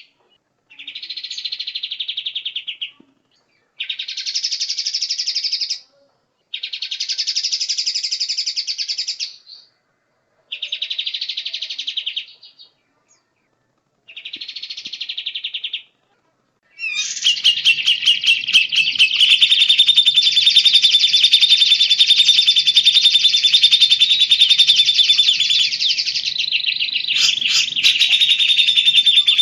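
Recorded songbird song: a rapid, buzzy trill repeated in five separate phrases of two to three seconds with short pauses between them. About two-thirds of the way through, a different bird recording takes over: a continuous, dense chattering song with a faint low hum beneath it.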